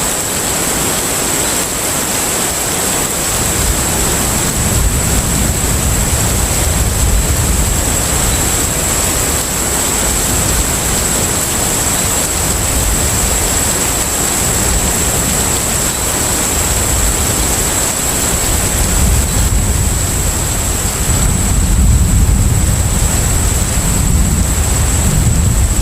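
Container ship at sea: a steady rushing wash of water with a low ship rumble that swells and eases, and a thin steady high whine over it.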